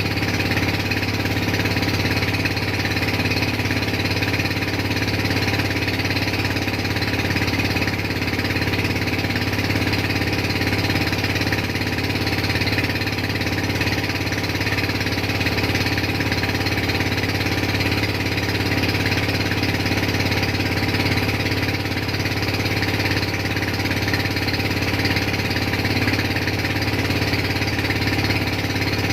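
Motorboat engine running steadily at a constant speed, with no change in pitch or level.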